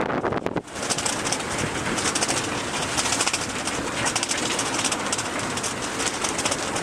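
Wind buffeting the microphone aboard a sailboat under sail, a steady rumbling rush with a fluttering hiss. It dips briefly just over half a second in, then returns stronger.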